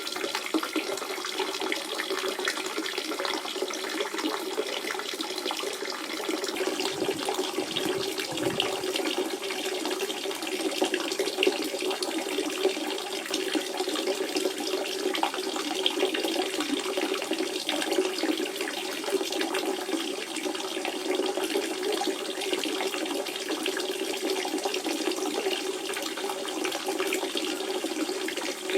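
Natural spring water running and splashing steadily, a continuous babbling flow.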